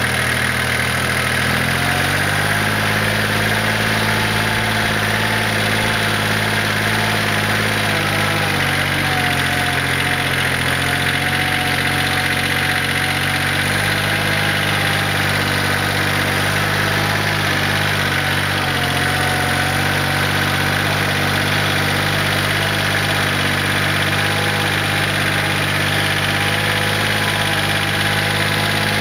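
Kioti LB1914 compact tractor's diesel engine running steadily while the tractor drives, its pitch stepping up about two seconds in and shifting slightly a few times after.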